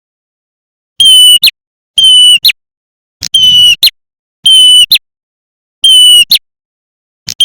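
Recorded prenjak merah lure call played back loud: about six short harsh calls, roughly one a second, each a steady high note ending in a quick sharp upward note, with dead silence between them.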